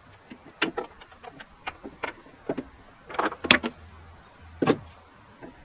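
Hand tools clinking and knocking on metal in irregular sharp taps while a hard-to-reach bumper nut is worked loose.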